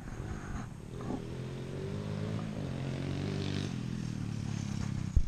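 Pit bike's small single-cylinder four-stroke engine running and revving as it is ridden, pitch wavering and rising a little through the middle before easing off. A single sharp knock near the end.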